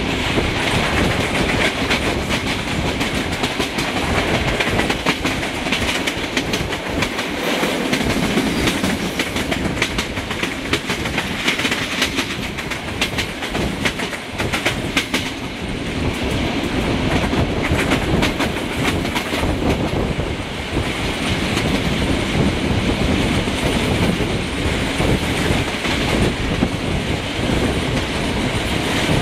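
Passenger train running at speed, heard from an open coach window: a steady clickety-clack of wheels over rail joints amid rushing air and running noise. The train is hauled by a Romanian 060-DA diesel-electric locomotive.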